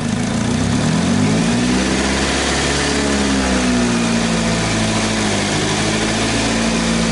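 2009 Saturn Aura's engine revving up with the 6T40E automatic in drive and the wheels spinning off the ground. The pitch climbs for about two and a half seconds, eases back a little and holds, then drops near the end.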